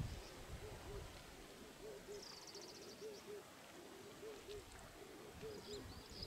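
Faint, repeated two-note hoots of a bird, one pair about every second. A brief high twitter from another bird comes about two seconds in.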